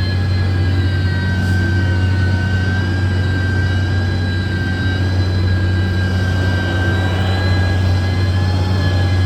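Heavy construction machine's engine running at steady revs, a low drone with a thin, steady high whine over it.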